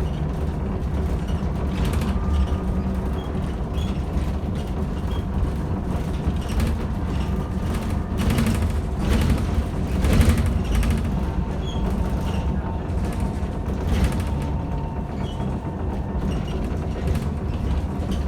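Interior of a Bogdan T90110 trolleybus on the move: a steady low rumble with a faint steady whine, and the body creaking and rattling with knocks over bumps, the biggest about two seconds in, between eight and ten seconds, and near fourteen seconds.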